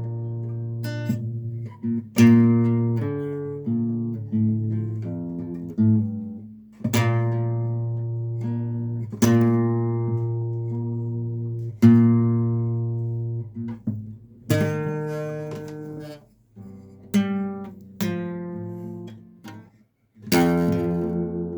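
Acoustic guitar playing a slow song introduction: single strummed chords about every two and a half seconds, each left to ring and fade, with a few softer notes in between.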